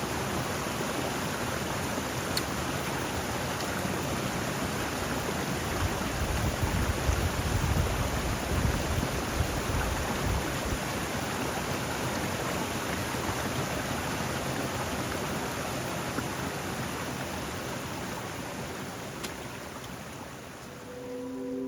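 Steady rain with strong wind, a continuous rushing hiss; gusts buffet the microphone with a low rumble about six to eleven seconds in, and the sound fades away near the end.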